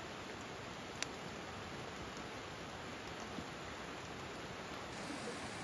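Steady hiss of heavy rain falling, with a single sharp click about a second in.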